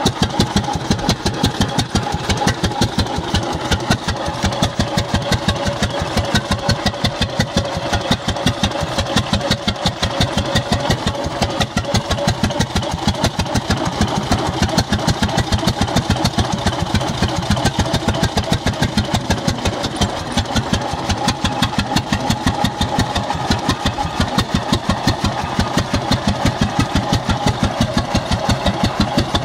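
1916 International Titan 10-20 tractor's slow-running two-cylinder horizontal engine running steadily with an even exhaust beat.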